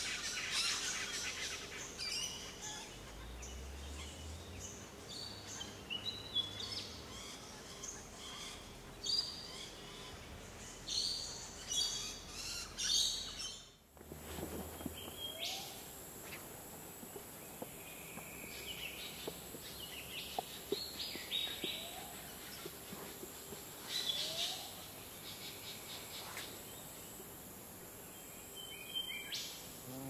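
Wild birds calling: a dense mix of short chirps and whistles that thins to scattered calls over a steady high hiss after an abrupt change about halfway through.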